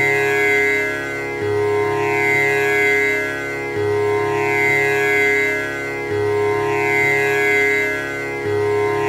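Tanpura drone: the strings plucked one after another in a steady repeating cycle of a little over two seconds, each round beginning on the low string, the notes sustaining and overlapping with a buzzing shimmer in the upper overtones.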